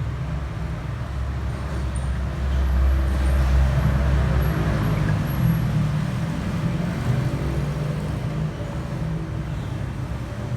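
Steady low rumble with an even hiss, like road traffic noise.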